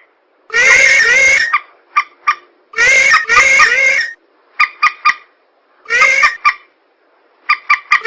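Recorded marsh-bird lure calls for rails (mandar): loud, harsh, wavering calls in bouts of about a second, twice doubled, with quick sharp notes in between.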